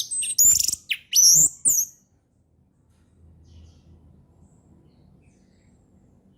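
Orange-headed thrush singing: a short, loud run of high whistled and gliding notes in the first two seconds, then it falls silent over faint background.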